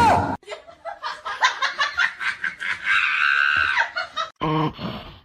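Rapid pulsing laughter, rising to a held high squeal about three seconds in, followed by a short, lower pitched sound near the end.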